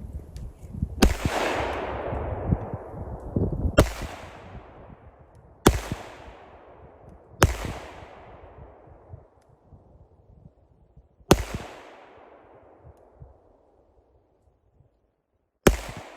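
FN Five-seveN pistol firing 5.7×28mm rounds: six single shots several seconds apart, each followed by a long echo that dies away over a second or more.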